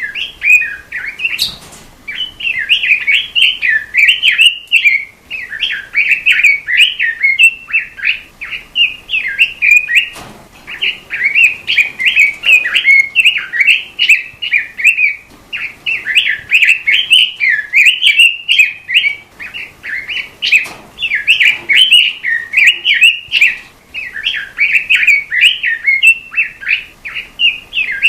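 A songbird of the kind kept and sold as 'robin' in Indonesian bird-keeping sings a fast, continuous warbling song of quick rising and falling notes. The song comes in long runs broken by short pauses every few seconds.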